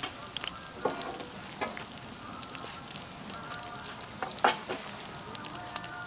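Campfire crackling and popping, with sharp irregular snaps over a steady hiss and the loudest pop about four and a half seconds in. Distant waterfowl calls run through it.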